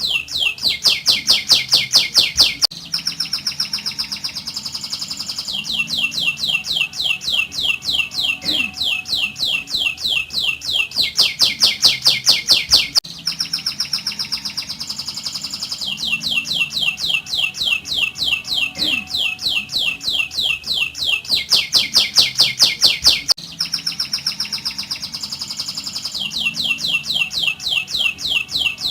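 Domestic canary singing a continuous rolling song: fast trills of repeated notes, each note sweeping down in pitch, passing from one trill to the next every second or few. The same stretch of song comes round again about every ten seconds.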